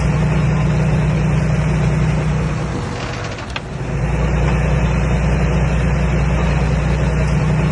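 Komatsu D21A bulldozer's diesel engine running steadily, with a steady low drone. It dips briefly about halfway through, with a single sharp click, then comes back to the same note.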